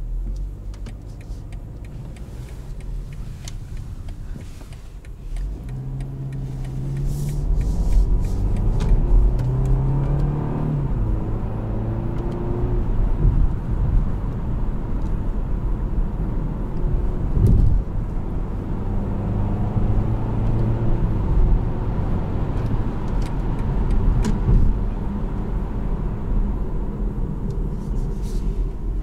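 BMW 318i (G20) four-cylinder turbo engine and road rumble while driving: quieter at first, then from about five seconds in the car accelerates, the engine note rising and stepping down through several automatic upshifts before settling into a steady cruise. A single knock about seventeen seconds in.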